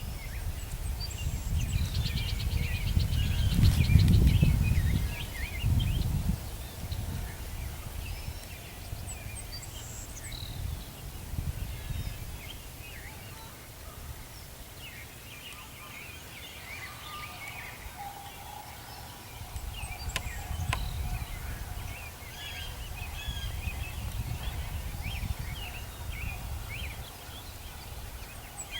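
Wild turkey gobbling a few seconds in, over songbirds chirping throughout, with a low rumble that is loudest in the first six seconds and returns past the twenty-second mark.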